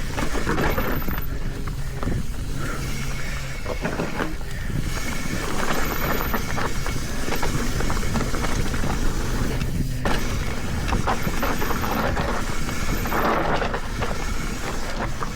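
Mountain bike running down a rough, rocky trail: tyres over rock and dirt with constant fast, irregular rattling and clattering from the bike, and wind rumbling on the microphone.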